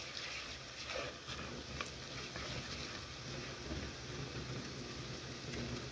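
Faint sizzle of onions, garlic and spices frying in a pot as they are stirred, with a few light spoon scrapes and taps.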